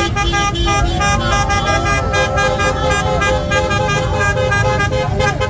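Car horns honking in held blasts that start and stop, mixed with wavering voices and many sharp beats, the noise of a street celebration.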